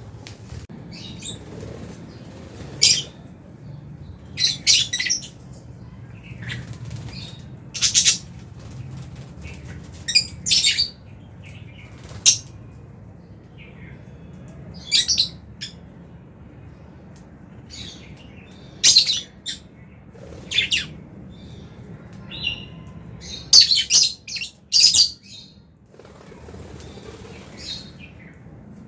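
Lovebirds in an aviary chirping: short, sharp high calls at irregular intervals, some in quick clusters of two or three, over a low steady hum.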